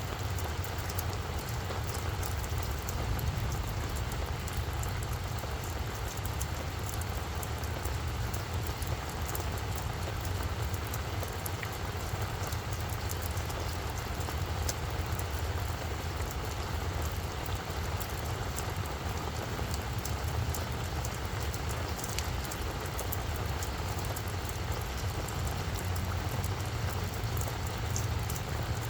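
Steady rain falling on a flower bed, with many small drop ticks over an even hiss. A steady low rumble runs underneath.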